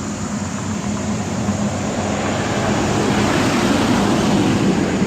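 Rushing engine noise of a passing vehicle, swelling gradually to its loudest near the end and then starting to fade.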